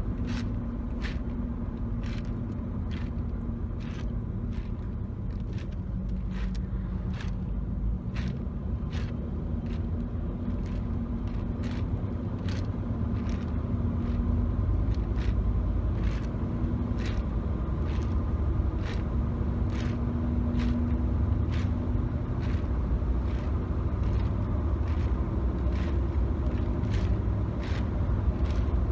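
Car cabin road rumble while driving, picked up by a phone, getting a little louder about halfway through. Over it comes an even ticking, about one and a half ticks a second.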